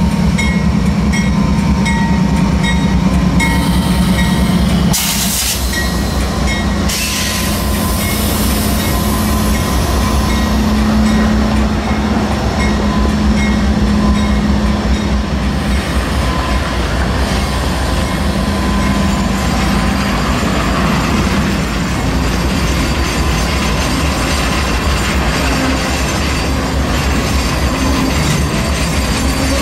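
Diesel freight locomotives of an intermodal stack train passing close by: a steady low engine drone over the rumble and clatter of wheels on the rails. There are two short bursts of hiss about five and seven seconds in.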